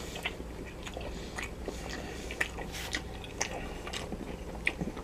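A person chewing a mouthful of sausage close to the microphone: irregular soft, wet mouth clicks and smacks.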